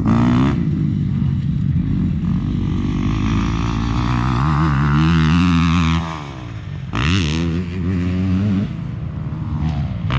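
Motorcycle engine running under throttle, its pitch climbing for a couple of seconds, easing off about six seconds in, then picking up sharply again and holding steady.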